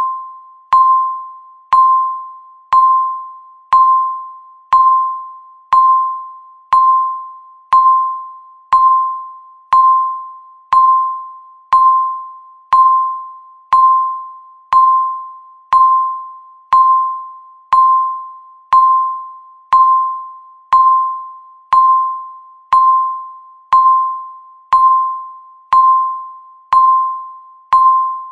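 Countdown timer beep sounding once a second: a single mid-pitched electronic ding with a sharp onset, each fading away before the next, marking off the seconds.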